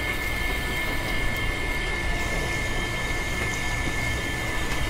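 Small electric motor of a miniature rice-milling machine running steadily, with a constant high whine.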